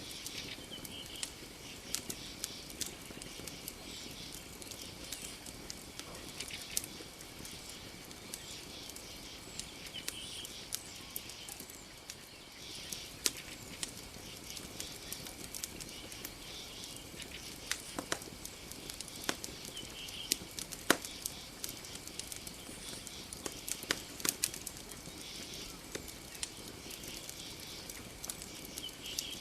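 Campfire crackling, with irregular sharp pops. Behind it runs a steady high-pitched chorus of night creatures.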